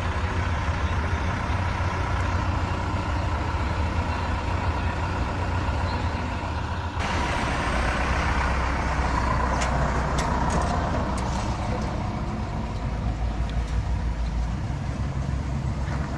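Engines of cars and trucks running at low speed as they pull in, a steady low rumble. The sound changes abruptly about seven seconds in, and a few sharp clicks follow.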